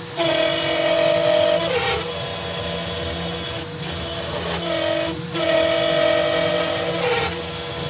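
CNC router carving: the spindle runs with a steady hissing whine, and twice a louder screeching tone holds for about a second and a half before sliding down in pitch, with brief knocks between the passes. This chatter and screeching comes from a cut the operator wants to clean up.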